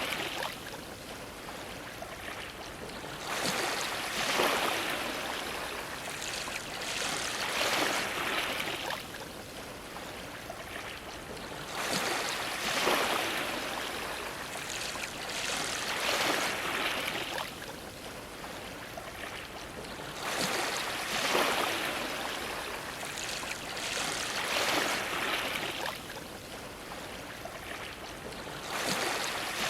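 Small ocean waves washing and splashing against a dock, a louder splash every few seconds over a steady wash of water.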